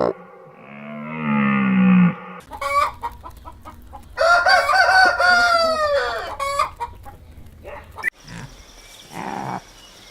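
Chickens: a rooster crows once, a call of about two seconds starting about four seconds in, amid short clucking calls. Near the end the sound cuts to a different, noisier sound.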